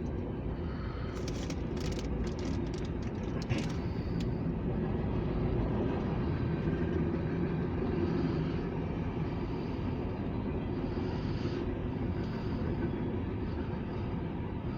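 Freight cars rolling past on the rails, a steady rumble with a run of sharp clicks and clacks about one to four seconds in.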